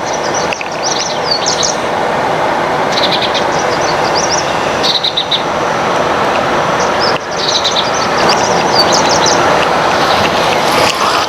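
Birds chirping in short clusters of quick, high chirps, over a steady rushing background noise.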